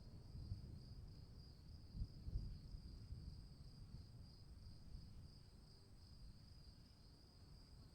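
Crickets chirping in a steady, fast-pulsing trill at one high pitch, faint, over a low rumble with a couple of soft low thumps about two seconds in.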